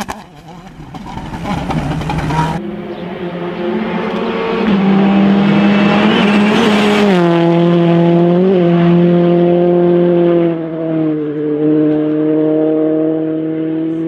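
Rally car engine running at high revs under hard acceleration. Its pitch climbs, drops sharply about seven seconds in, then holds nearly steady. A different clip's noisy car sound comes before it, cut off about two and a half seconds in.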